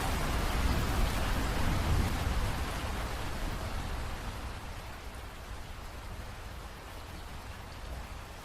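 Rain falling heavily, then easing off over a few seconds to a lighter, steady fall, with a deep rumble underneath that fades along with it.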